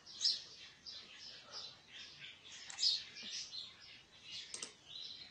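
Faint, scattered high chirps of small birds calling, with a single click about four and a half seconds in.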